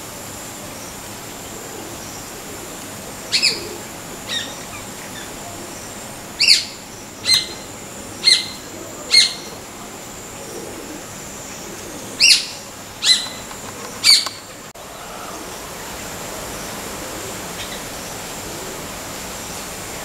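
A bird calling: short, loud, sharp calls in three runs of two to four, each about a second apart, over a steady outdoor hiss and a thin high tone.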